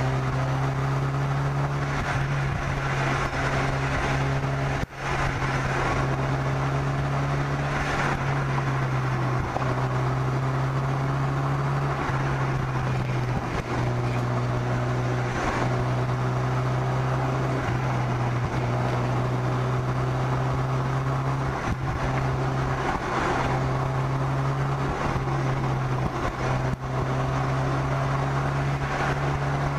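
A car's engine running at steady cruising revs, a low even drone, heard from on the bonnet over steady wind and road noise. The sound briefly drops out about five seconds in.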